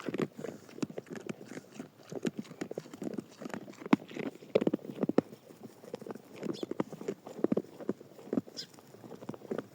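Irregular knocks and taps, many short hard strikes at uneven spacing, a few louder ones around four and five seconds in.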